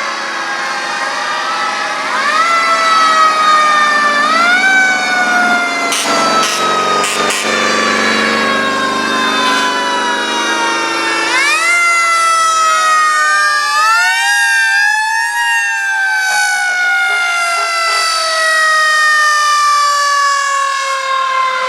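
Antique fire truck siren wailing: its pitch rises quickly, then slowly falls, and it is wound up again several times. A truck engine runs underneath.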